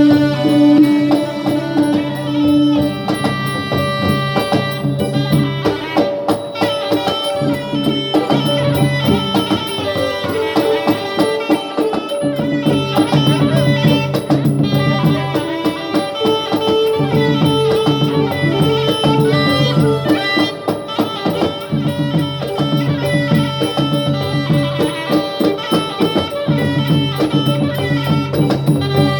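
Southern Thai Nora (Manora) music: a traditional ensemble playing held melodic notes over a steady, busy percussion beat.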